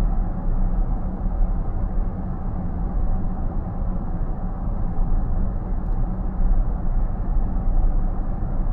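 Steady road and tyre rumble inside a car's cabin while it cruises at about 75–80 km/h.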